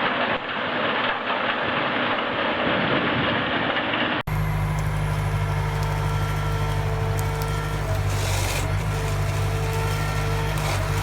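An industrial wood chipper grinding wood, a dense continuous noise, until a sudden cut about four seconds in. After the cut, a heavy machine's engine runs steadily with a low hum and a few light knocks.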